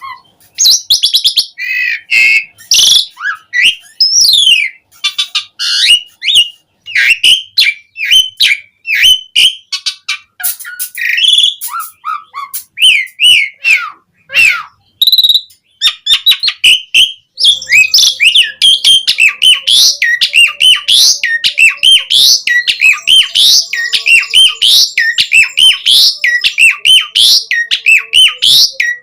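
Asian pied starling (jalak suren) singing hard, a long run of varied whistles, glides, clicks and chatter. From about halfway on it settles into a quick rising note repeated about three times a second.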